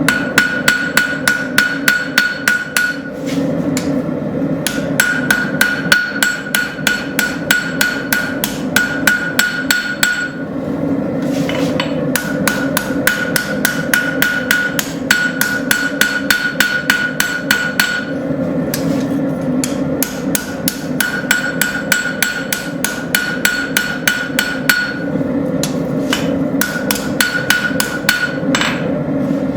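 Hand hammer forging the blade bevels of a hot railroad spike on an anvil: runs of quick, steady blows, about three to four a second, with the anvil ringing through each run and short pauses between runs. A steady rushing noise runs underneath.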